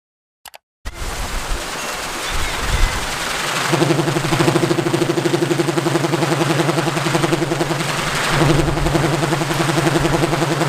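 Balinese pindekan, a wooden wind-propeller made of cempaka wood, spinning in strong wind and giving a loud, rapidly pulsing drone over steady wind noise. The drone sets in about four seconds in, falters briefly around eight seconds, then picks up again.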